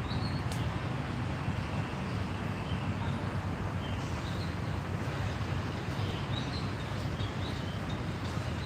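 A steady low motor drone, with short faint bird chirps scattered over it.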